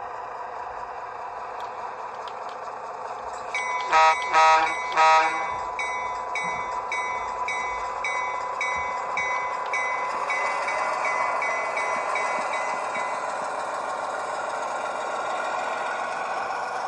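Model diesel locomotive's sound decoder playing through its small onboard speaker: the bell starts ringing, three short horn toots sound about four seconds in, and the bell keeps ringing for several more seconds. Near the end the engine sound rises as the locomotive throttles up to move off.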